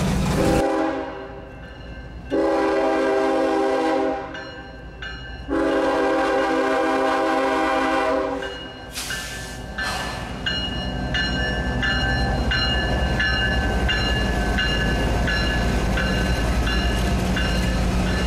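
CSX freight locomotive's air horn sounding a series of long blasts, followed by a bell dinging about twice a second over the steady low rumble of the passing train.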